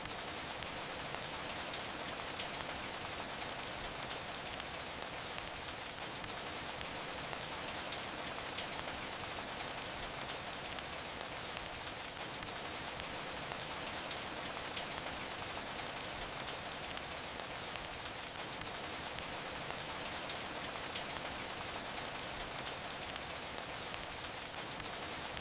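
Steady rain falling, an even hiss, with scattered sharp clicks and crackles at irregular moments.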